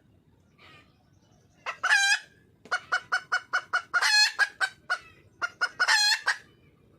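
A wild junglefowl hen calling for a mate: one drawn-out call, then a fast run of short clucking notes broken by two longer calls.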